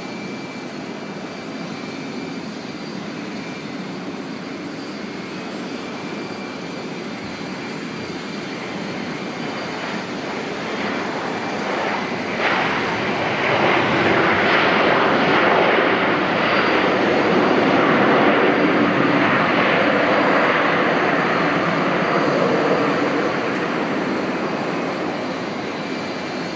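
Airliner's engines passing: a broad, steady noise that swells from about ten seconds in, is loudest through the middle and eases off toward the end.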